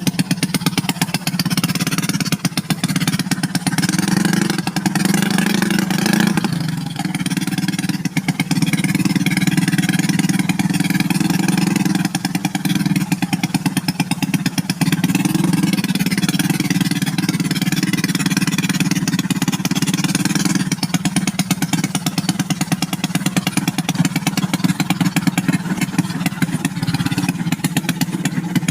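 Motorcycle engine running at a steady speed, easing off briefly about six seconds in before picking up again.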